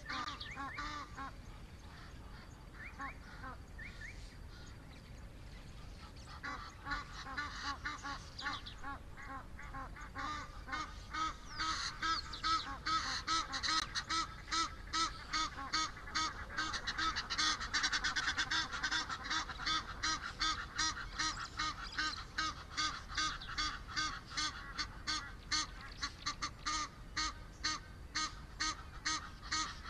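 Bird calling in a rapid, even series of repeated notes, about two a second. The calls begin a few seconds in and grow louder around the middle.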